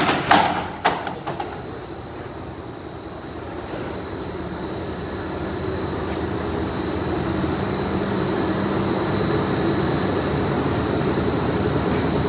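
Machinery in a uPVC pipe factory running steadily: a low hum with a thin high whine over it. A few sharp clanks come in the first second and a half, and the noise then slowly grows louder.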